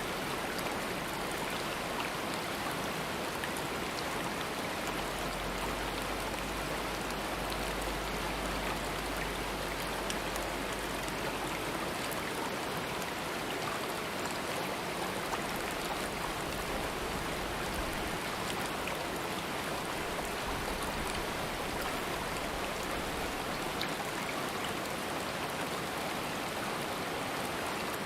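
Water running in a stream, a steady rush that does not let up.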